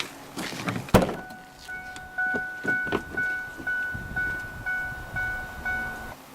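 A single thunk about a second in, then the truck's electronic warning chime dinging steadily at about two dings a second until it stops near the end.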